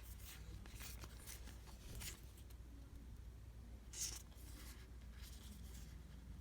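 Faint rustling and sliding of baseball trading cards being handled and flipped through, with a brief louder swish about four seconds in.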